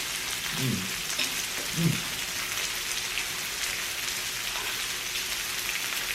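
Pork belly sizzling on a tabletop grill: a steady crackling hiss with scattered small pops. Two short voiced murmurs are heard in the first two seconds.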